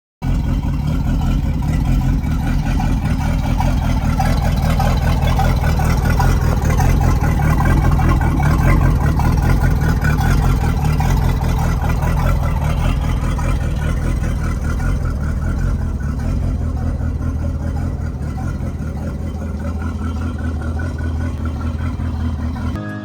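Inboard boat engine running steadily on its trailer, out of the water, cooled by a garden hose through a flushing attachment. It grows slightly louder over the first several seconds, then eases off a little.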